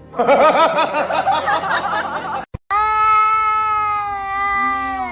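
Rapid wavering vocal sounds for about two and a half seconds. Then, after a brief break, one long drawn-out cat meow, held steady and dropping in pitch at the end.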